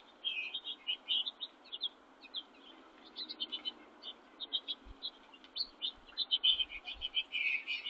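Songbirds chirping: a busy run of short overlapping calls that grows busier near the end.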